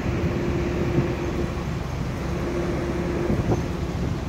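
Steady rumble of a Union Pacific diesel freight train and its locomotive running, mixed with road traffic, with a steady hum through it that drops out briefly in the middle.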